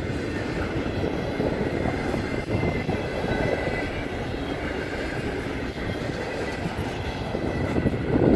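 Intermodal freight train's double-stack container cars and trailer cars rolling steadily past on steel wheels and rail. The last car of the train goes by near the end.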